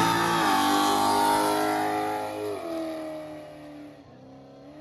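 Fourth-generation Chevrolet Camaro's engine revving hard as the car pulls away with its rear tyres spinning and smoking. The pitch drops about two and a half seconds in as it shifts up, and the sound fades steadily as the car draws away.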